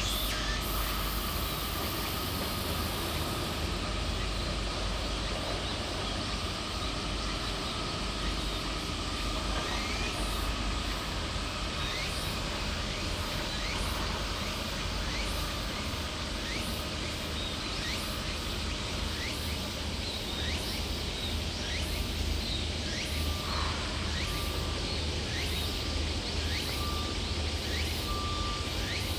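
Steady shipyard background noise with a low hum, many short falling chirps, and an on-off steady beeping tone in the last few seconds.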